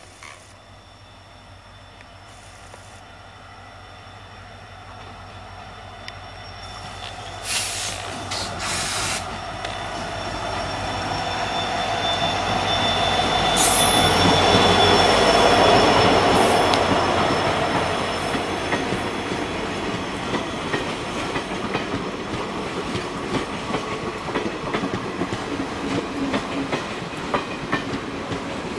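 WDP4 diesel locomotive (EMD 16-cylinder two-stroke) approaching and passing, its engine hum swelling to a peak about halfway through. The passenger coaches then roll by with a rhythmic clickety-clack of wheels over the rail joints.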